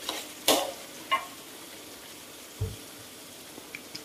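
Prawns in chili paste sizzling in a steel wok, a steady faint hiss. A metal spatula scrapes and clacks against the wok three times in the first second or so, then gives one dull knock about two and a half seconds in.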